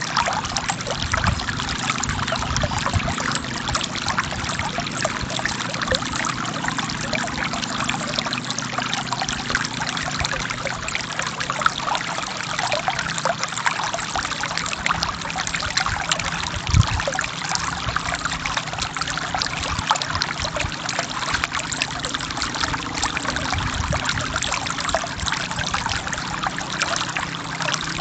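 Forest river water flowing and splashing over rocks, a steady rush of small trickles and pours with a gentle waterfall.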